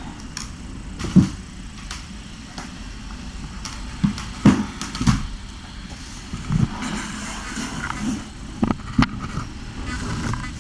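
Scattered light knocks and rustles over a steady low hum, with a sharp click about nine seconds in.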